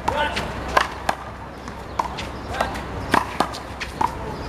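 Rubber handball smacking off players' hands, the wall and the court during a one-wall handball rally: a run of sharp, irregular smacks, roughly two a second.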